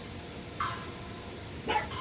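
A dog barking, two short barks, the second near the end.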